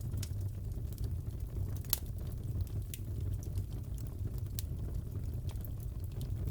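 Crackling wood fire in a fireplace: a steady low rumble with irregular small pops and snaps, one sharper pop about two seconds in.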